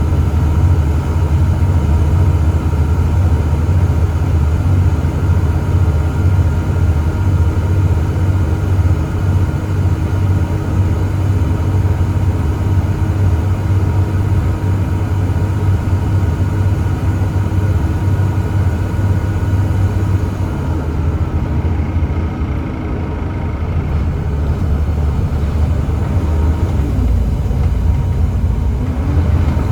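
Volvo D7C 7.3-litre diesel engine of a Volvo B7TL double-decker bus running under way, a steady low rumble. It eases off about two-thirds through and the engine note rises again near the end.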